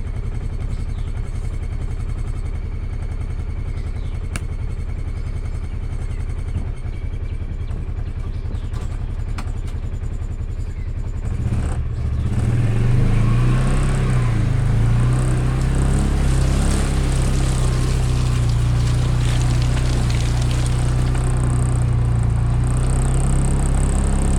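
Vehicle engine running steadily, then speeding up about halfway through and holding at a higher, louder pitch.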